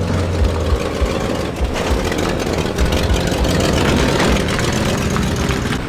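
Vehicle engines running steadily at low revs, with a continuous low engine sound.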